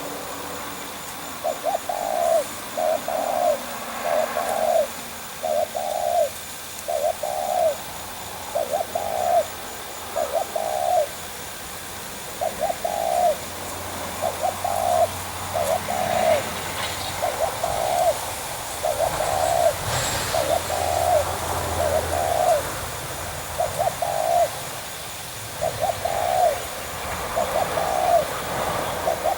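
A dove cooing over and over, a steady series of short coo notes repeated about once a second.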